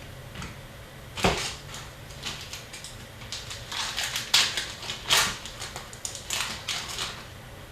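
Hockey trading cards and their packs being handled as a box is broken: an irregular run of short rustles, snaps and clicks, loudest about a second in and again around four to five seconds in.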